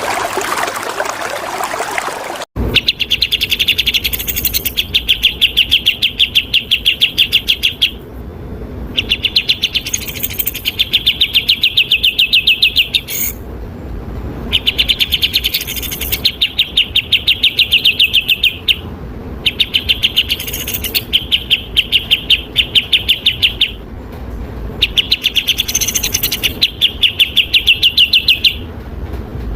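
Flowing water for the first couple of seconds, then an abrupt switch to a songbird's rapid trill. The trill is quick repeated high notes, about ten a second, delivered in bursts of two to four seconds with short pauses between them.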